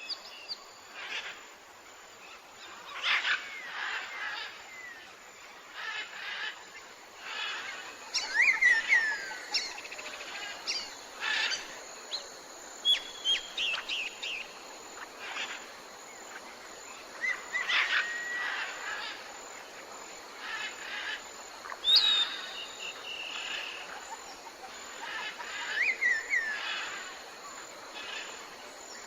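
Tropical forest birds calling: a mix of short chirps and whistled calls, several falling in pitch, every second or two over a steady background hiss.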